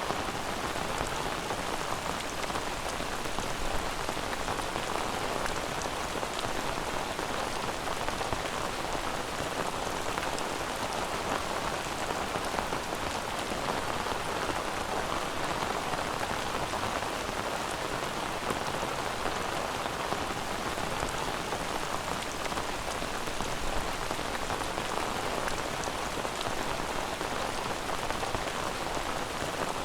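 Steady rain falling on a surface, an even patter of many drops with no thunder.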